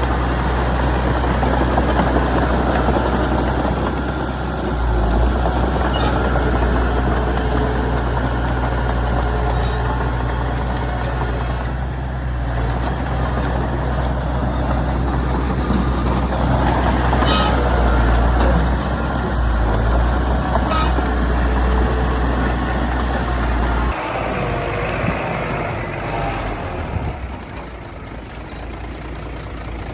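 Heavy diesel engine of a Komatsu D31PX bulldozer running steadily at work, with a few sharp metallic clanks. About three-quarters of the way through the sound changes abruptly and the engine becomes quieter.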